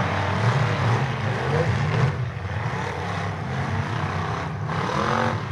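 Demolition derby cars' engines running together, with engines revving up and down repeatedly over a steady drone.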